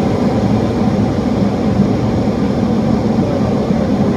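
Steady flight-deck noise of a Boeing 737 on approach in landing configuration: a constant low drone under an even rush of air.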